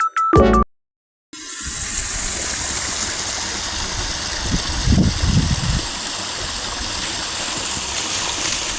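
Steady rush of water from a small stream spilling over a little waterfall. It comes in after a short burst of music cuts off about a second in.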